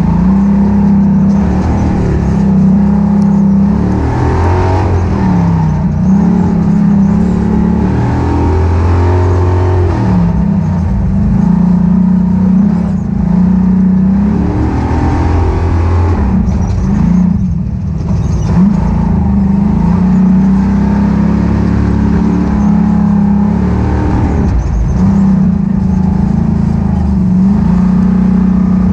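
Ultra4 off-road race car's engine running hard, its revs repeatedly dropping and climbing again every few seconds as it is driven along the course.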